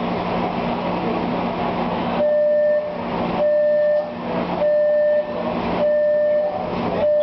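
Steady rumble inside a train carriage, then from about two seconds in a series of loud electronic beeps, each about half a second long, about one a second, five in all: a train's door-closing warning signal.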